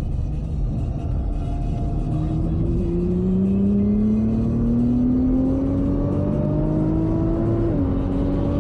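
Nissan GT-R R35's twin-turbo V6 heard from inside the cabin, accelerating hard. The engine note climbs steadily for several seconds, drops suddenly with an upshift near the end, then starts climbing again.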